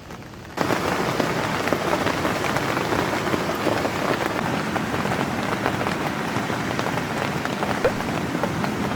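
Heavy rain falling, a dense steady hiss of many drops. It jumps suddenly louder about half a second in.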